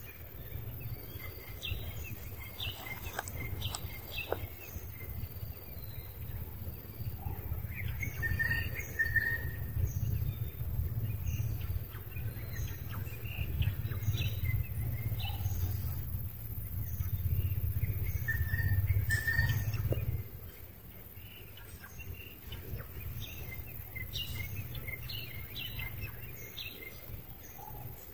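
Outdoor ambience of birds chirping: short high calls repeated again and again. Underneath is a low rumble that is the loudest sound and stops suddenly about two-thirds of the way through.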